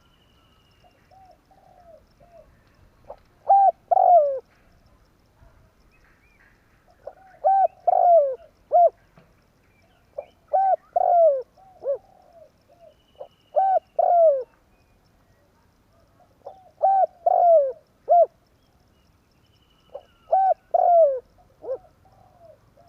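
Spotted dove (tekukur) cooing: a repeated phrase of several soft, low coos, each phrase ending in a falling note, given about six times, roughly every three seconds. A faint high chirp from another bird comes a few times.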